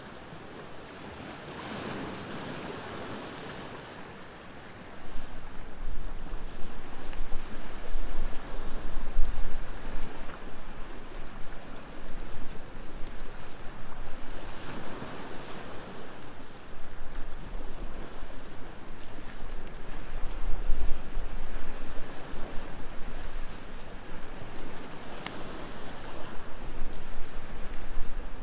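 Ocean waves washing in and out in slow swells, with a wood campfire giving an occasional crackle or pop. From about five seconds in, wind buffets the microphone with a low rumble.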